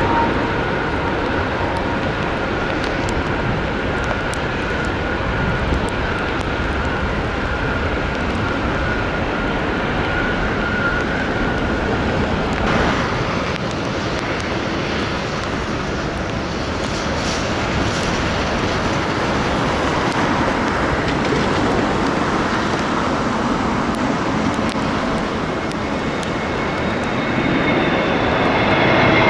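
Jet airliner engines running with a steady broad rush and a high whine; the whine fades out about halfway through, and another jet's whine comes in near the end.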